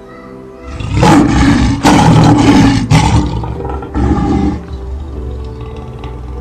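A large animal roaring over background music: one long, loud roar starting about a second in and lasting about two seconds, then a shorter roar about four seconds in.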